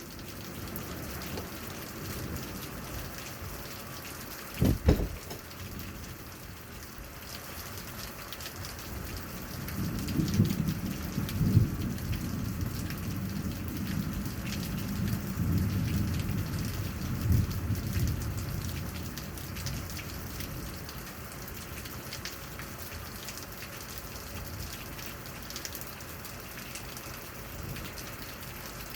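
Steady rain falling during a thunderstorm. About five seconds in there is a brief low thump. From about ten seconds in, a long low roll of thunder rumbles for roughly nine seconds before fading back to the rain.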